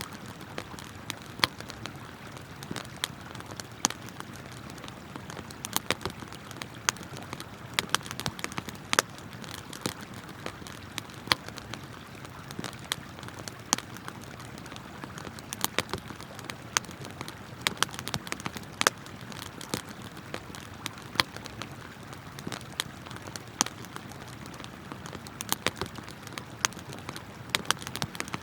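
Wood campfire crackling, with frequent irregular sharp pops, over the steady rush of a flowing river.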